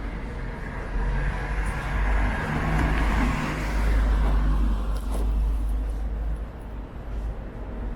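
A car passing along the street: its tyre and engine noise swells to a peak about three to four seconds in and dies away by about five seconds. Under it is a steady low rumble of wind buffeting the microphone.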